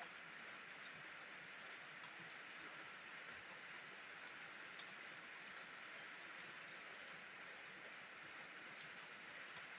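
Rain falling steadily, a faint, even hiss.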